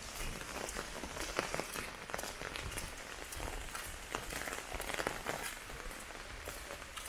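Heavy rain falling: a steady hiss broken by irregular sharp taps of drops.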